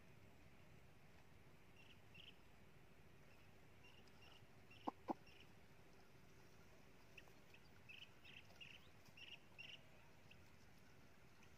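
Near-silent marsh ambience with faint, short bird chirps scattered through it, thickest in the second half, and two sharp clicks in quick succession about five seconds in.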